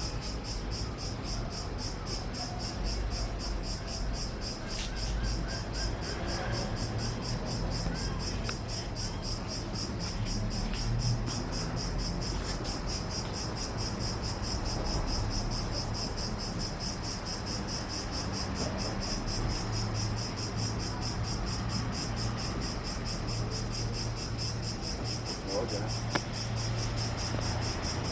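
Insect chorus chirping: a steady, high-pitched, rapidly pulsing trill that carries on unbroken, over a low background rumble.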